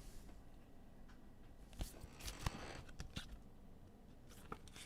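Faint rustling and light clicks of trading cards being handled and slid through a pack, with a short sliding rustle about halfway through.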